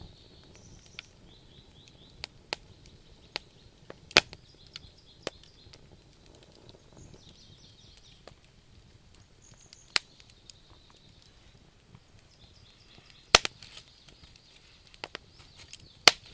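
Wood fire burning, with irregular sharp crackles and pops over a low hiss; the loudest pops come about four, ten, thirteen and sixteen seconds in.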